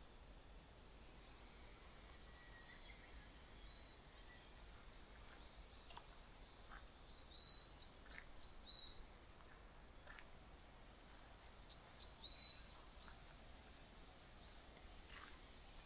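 Faint bird calls: small birds chirping in quick runs of short, high notes, with the clearest run about twelve seconds in, over quiet outdoor background noise.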